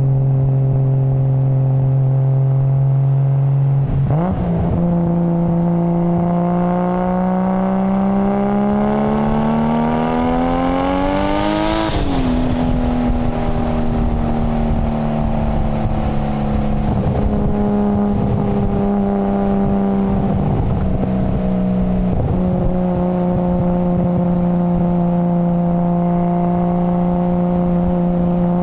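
Nissan Skyline GT-R R33's RB26 twin-turbo straight-six engine and exhaust under way. It runs at steady revs, steps up about four seconds in, then climbs in pitch for about eight seconds. At the peak there is a short hiss and a drop, after which the revs ease down and hold steady.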